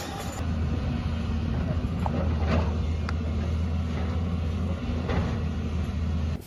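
Heavy excavator's diesel engine running steadily with a deep hum, with a few sharp knocks from the machine at work. The sound stops abruptly near the end.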